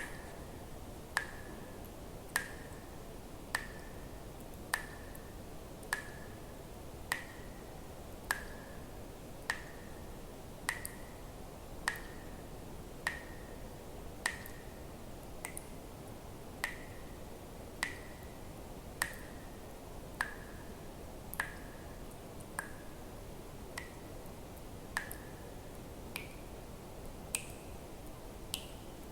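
Water drops falling into water at a steady pace, about one every second and a quarter, each a sharp click followed by a short ringing plink. The last few plinks are higher-pitched. A steady hiss lies underneath.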